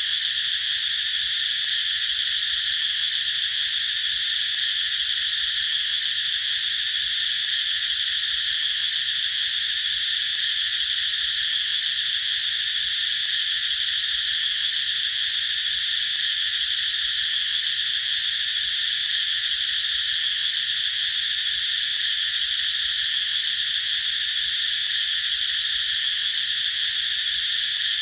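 Cicadas singing in a continuous chorus, a steady high-pitched buzz that doesn't let up or change.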